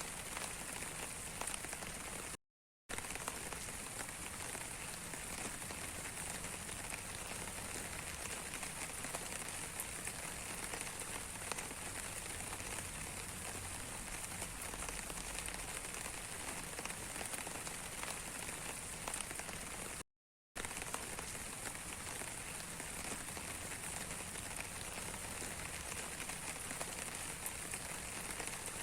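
Steady rain falling, an even patter of many drops with fine ticks through it. The sound cuts out completely for a moment twice, about two and a half seconds in and again about twenty seconds in.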